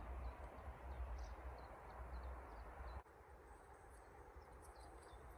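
Faint, scattered high chirps of small birds calling in the evening countryside, over a low rumble that cuts out suddenly about three seconds in.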